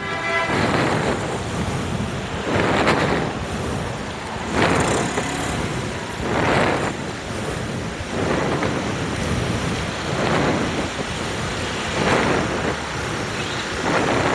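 Road traffic passing close by, engine and tyre noise swelling and fading every couple of seconds. A short horn beep sounds at the start.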